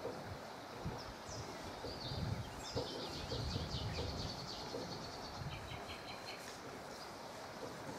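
Small birds chirping, with a quick run of high, rapidly repeated notes about three seconds in and a shorter run a couple of seconds later, over steady outdoor background noise.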